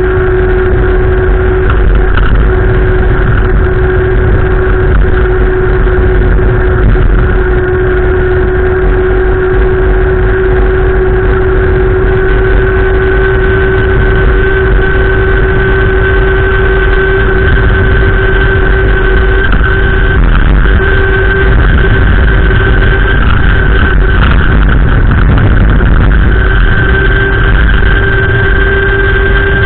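Wind rumbling on the microphone, with a steady hum underneath that holds two constant pitches.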